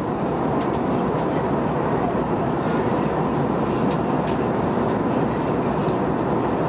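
Steady drone of an Airbus A320-232 cabin in flight: airflow and the IAE V2500 engines heard from inside, with a few faint ticks.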